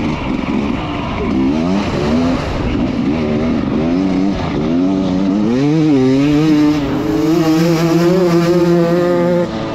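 Dirt bike engine revving up and down hard, then held at high revs for several seconds, with the pitch falling away near the end.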